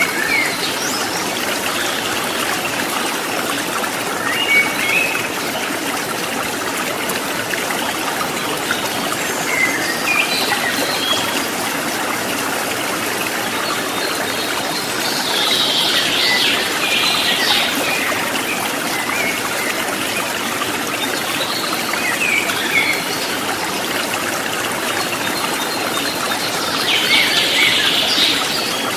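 Water trickling and babbling in a steady stream, with birds chirping now and then over it in short bursts, most clearly about halfway through and near the end.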